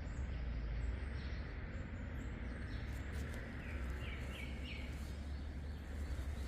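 Small songbirds chirping, with a run of three quick falling notes a little past halfway, over a steady low rumble and hiss of outdoor background noise.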